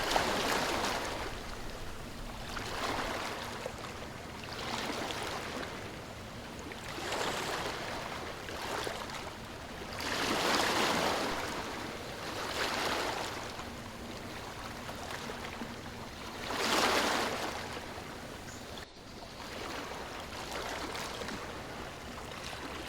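Ocean waves washing onto a shore, a swell every two to three seconds, with wind underneath. There is a brief drop-out about three quarters of the way through.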